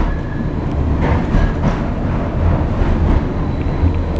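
Passenger train running, heard from inside the carriage: a steady low rumble of wheels on the track.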